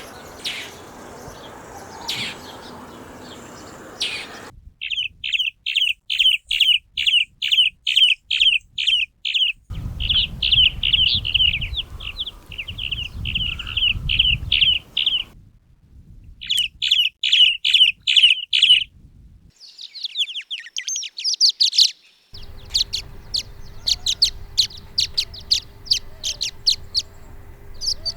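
Swallow calls: a run of short, sharp call notes repeated about twice a second, then faster chattering, in several separate recordings cut one after another.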